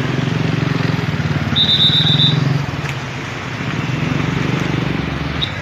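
An engine running, its speed swelling and easing, with a rapid run of high-pitched beeps about a second and a half in.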